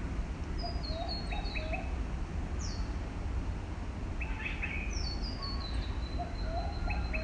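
Birdsong: several birds calling at once, short repeated chirps and stepped, descending whistles at both high and middle pitches, over a low steady rumble.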